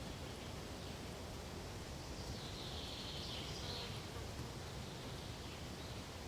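Steady rustling hiss of forest ambience, with a faint high call rising over it for a second or two about halfway through.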